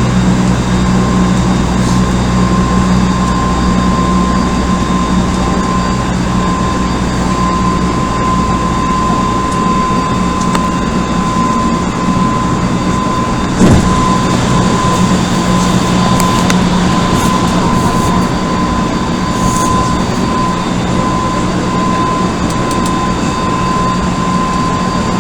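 Inside an Odakyu 1000-series electric commuter train running at a steady speed: continuous wheel-on-rail rumble with a constant whine and hum. A single sharp knock comes about 13 seconds in.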